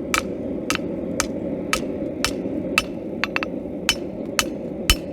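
Blacksmith's hammer striking a bar of coil spring steel on an anvil, about two ringing blows a second with a few quick lighter taps between them, as the knife blank is forged.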